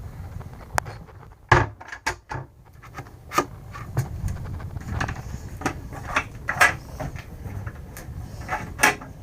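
Cabinet doors and drawers in a truck camper's interior being opened and shut: a run of irregular wooden knocks and clicks, several a second at times, over a low rumble.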